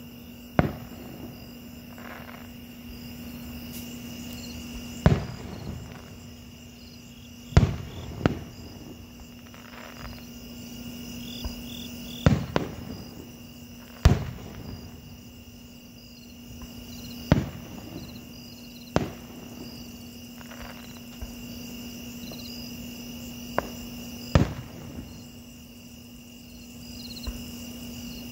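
Aerial fireworks shells bursting: about a dozen sharp booms at uneven intervals a few seconds apart, each with a short echoing tail.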